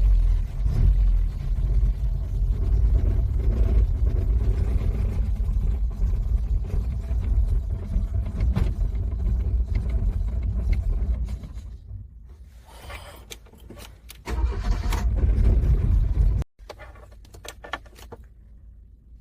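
Car engine cranking and struggling to start in extreme cold. It runs loud for about eleven seconds, then drops away, makes a second short attempt a few seconds later, and cuts off suddenly.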